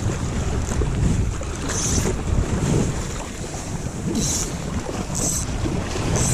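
Strong wind buffeting the microphone with a heavy low rumble, with lake waves washing and short hissy bursts four times.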